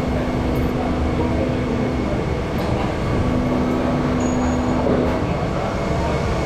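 Railway train running: a continuous rumble with a low hum that cuts in and out.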